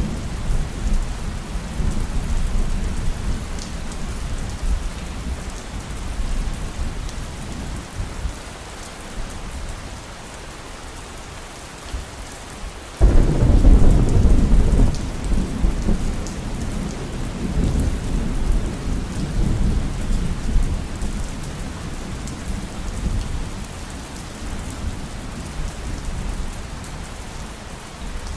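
Heavy rain falling steadily through a thunderstorm. Low rolling thunder fades away over the first dozen seconds. About halfway through, a sudden loud thunderclap breaks in and rumbles on, slowly dying away.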